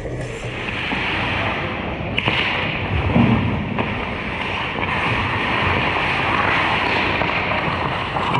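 Ice hockey play in a rink: a steady hiss of skate blades on the ice, broken by a few sharp clacks of sticks and puck, the sharpest about two seconds in.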